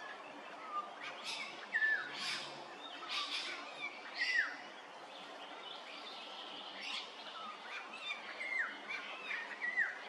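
Small birds calling: short, sharp downward-slurred notes repeated irregularly every second or two, mixed with brief hissy chirps, over steady outdoor background noise.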